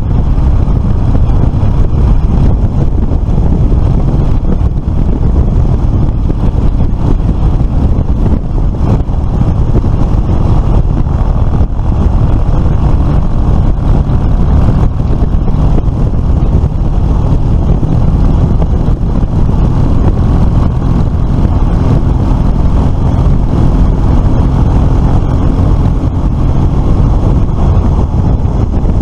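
Riding noise from a Suzuki FL125 Address scooter under way: a loud, steady rush of wind on the microphone with the engine running underneath.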